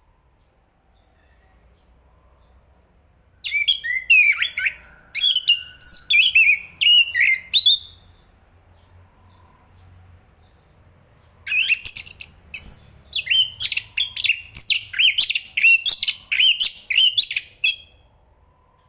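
Chestnut-capped thrush singing: two phrases of quick, varied high notes, the first a few seconds in and lasting about four seconds, the second after a pause and lasting about six seconds.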